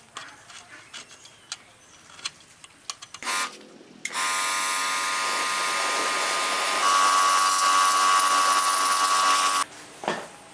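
A few light clicks and taps, then a small electric power tool runs for about five seconds with a steady whine, stepping up in pitch partway through and stopping abruptly.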